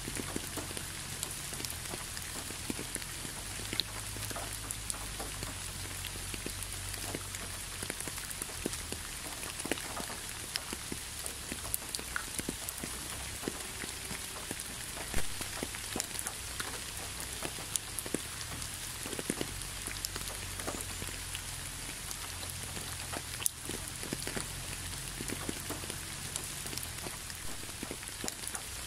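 Gentle rain falling onto a leafy road: a steady hiss with many single drops ticking, and a louder drop about halfway through.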